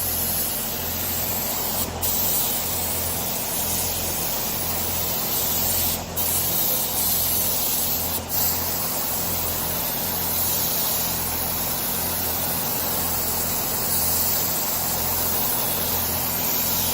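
Pneumatic paint spray gun hissing steadily as it sprays paint, the airflow cutting out briefly about three times when the trigger is let off, with a low hum underneath.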